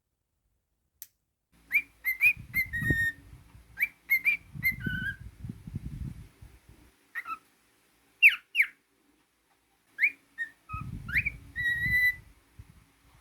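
Cockatiel whistling: bursts of short whistled notes that slide up and down, broken by pauses, beginning about a second and a half in. A low rustle runs under several of the phrases.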